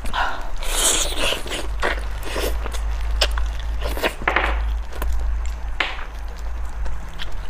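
Close-miked chewing and lip smacking on braised pig trotter, heard as irregular clicks and short smacks, along with the sound of gloved hands pulling the meat apart. A steady low hum runs underneath.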